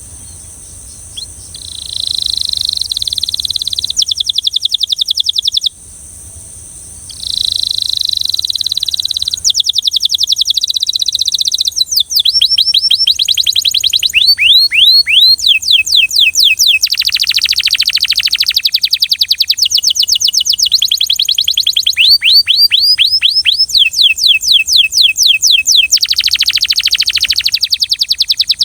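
A Belgian canary singing: loud, high-pitched song phrases of rapidly repeated notes, each phrase a different trill or run of falling sweeps lasting a few seconds, with a brief pause about six seconds in.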